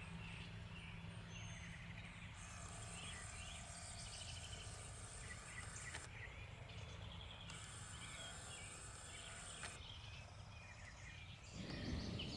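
Faint garden ambience: small birds chirping now and then, and a high insect-like buzz that comes and goes twice, over a low steady hum. Near the end a low rushing noise rises briefly.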